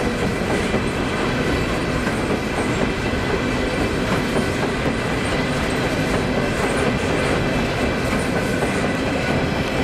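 Norfolk Southern coal cars rolling past at steady speed: a continuous rumble of steel wheels on the rails, with the clickety-clack of wheels over rail joints.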